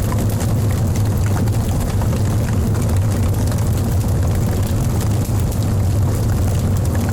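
Wood fire burning in a fireplace: many small crackles and pops over a steady low rumble of the flames.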